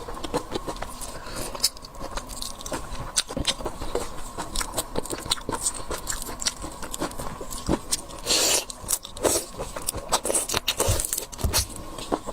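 Close-miked eating of seafood: biting and chewing with many short, crisp clicks. About eight and a half seconds in there is a louder noisy scrape.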